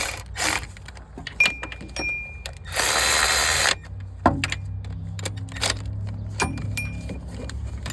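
Ratchet wrench running the new water pump's mounting bolts down snug on a Cummins ISX 15 engine, in short bursts of ratcheting, the longest about a second long around three seconds in. Light metal clinks and brief ringing taps of tool on bolt come between the bursts.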